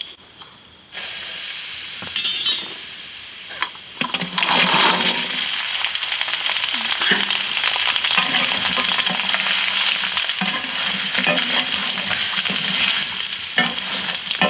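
Food frying in hot oil in a pan: a hiss starts about a second in, then a much louder sizzle breaks out about four seconds in and keeps going steadily, with stirring.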